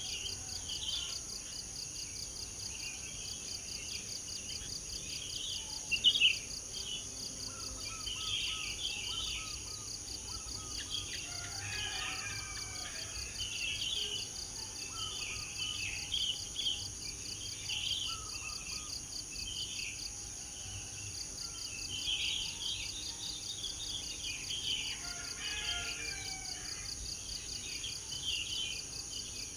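Many birds chirping and trilling in a morning chorus over a steady high insect drone of crickets, with one louder chirp about six seconds in.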